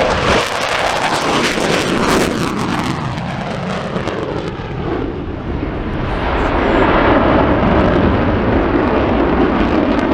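F-15 Eagle twin-engine fighter jet making a loud low flyby. The jet noise sweeps down in pitch about two to five seconds in as the plane passes, then keeps running loud.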